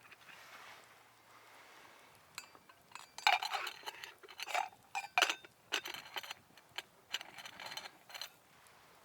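Camp cookware clinking and scraping: a run of short clinks and scrapes with a slight ring, starting about three seconds in and stopping a little after eight seconds.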